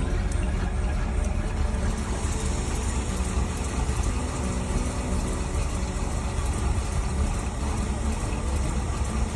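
1965 Chevrolet Impala's 327 small-block V8 idling steadily with a low, even rumble.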